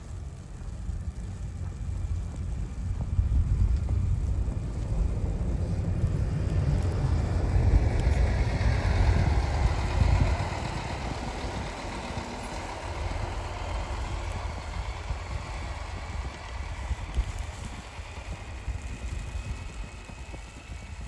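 A vehicle passing, growing louder to a peak about halfway and then fading, with wind buffeting the microphone in the first half.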